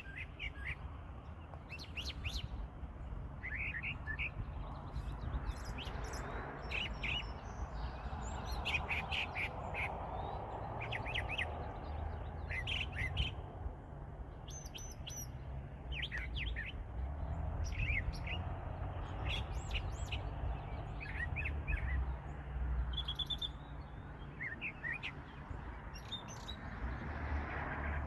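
Wild songbirds singing: many short chirps and trills from several birds, overlapping, over a steady low background rumble.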